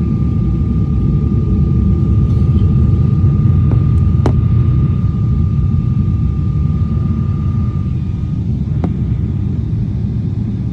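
Jet airliner cabin noise while taxiing: a steady low rumble from the engines and rolling, with a thin steady whine that drops out about eight seconds in and two faint clicks.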